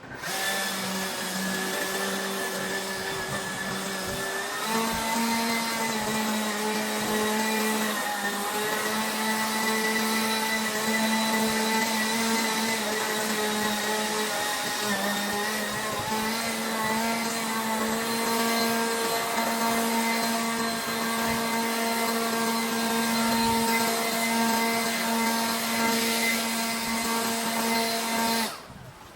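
Leaf blower running steadily while blowing out the barn floor in place of sweeping. Its steady whine steps up a little in pitch about five seconds in, then it shuts off just before the end.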